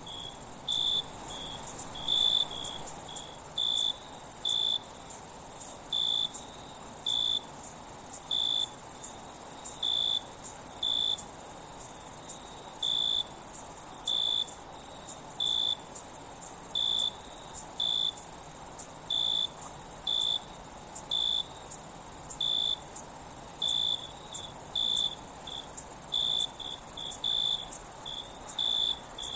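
Night insect chorus: a steady, very high-pitched trill, with another insect giving short chirps about once a second. The sound drops out for an instant three times.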